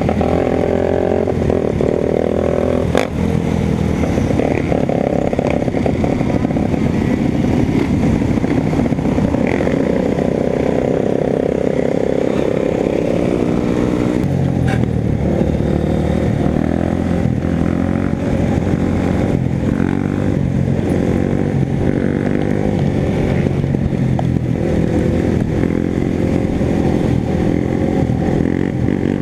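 Motorcycle engine running while riding, its pitch rising and falling with the throttle. The note changes sharply about halfway through, as at a gear change.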